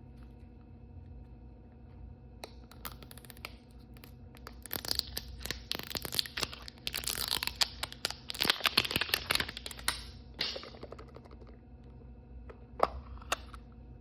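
Plastic toy packaging being torn open and crinkled by hand: a few crackles, then about five seconds of dense tearing and crinkling, then a few more scattered crackles near the end.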